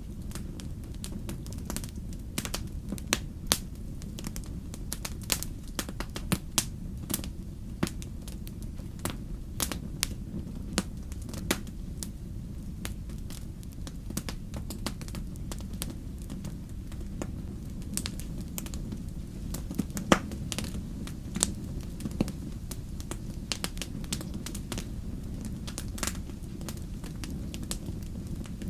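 Wood campfire crackling, with irregular sharp pops and snaps over a steady low rumble of the burning fire. One pop about twenty seconds in is louder than the rest.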